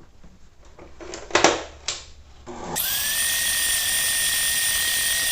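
Electric kitchen mixer switched on nearly three seconds in, its motor whining up briefly and then running steadily while creaming margarine and sugar; a few knocks of the bowl and beaters come before it.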